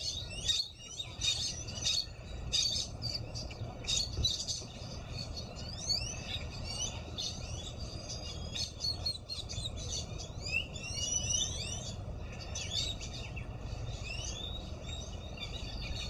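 Birds chirping and tweeting: a busy run of short high chirps and quick rising and falling whistles, with a steady low rumble underneath.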